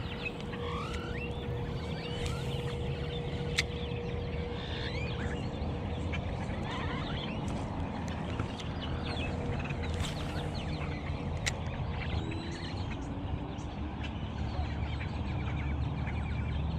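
A large flock of birds calling over one another, with many short, overlapping calls throughout and a steady low rumble beneath. Two sharp clicks stand out, a few seconds in and again past the middle.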